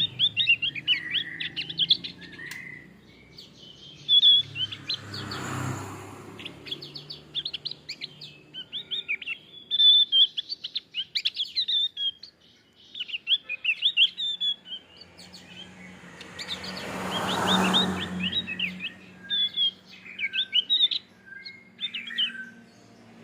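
Male Javan grey-throated white-eye (opior Jawa) singing: rapid phrases of high, quick chirping notes broken by short pauses. A rushing noise swells and fades twice, about five seconds in and again about seventeen seconds in.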